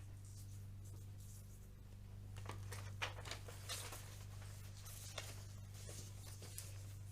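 Faint rustling and a few light clicks and taps, like handling noise, over a steady low electrical hum.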